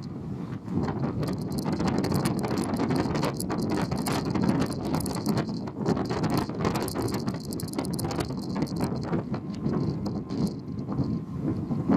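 Car ferry under way: a steady low rumble with dense, rapid crackling over it.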